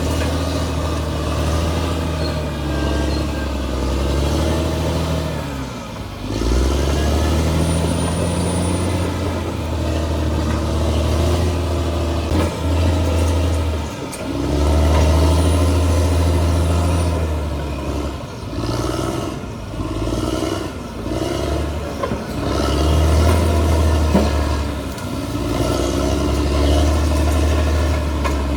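Diesel engine of a Caterpillar D6R XL crawler bulldozer working under changing load, its pitch and loudness rising and falling several times as it pushes and eases off.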